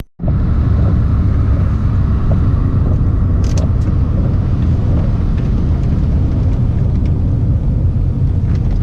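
Truck driving along, a steady low rumble of engine and road noise.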